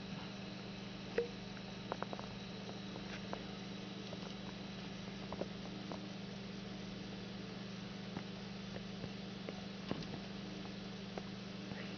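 Steady low hum, with a scattering of small, irregular clicks and taps from pet rats at their water bottle.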